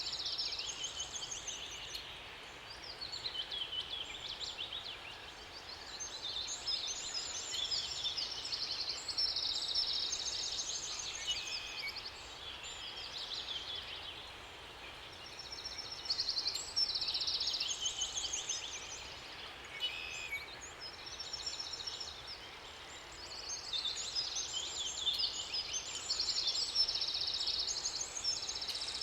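Several songbirds singing, with quick, overlapping phrases that come in clusters and brief lulls between them, over a faint steady background hiss.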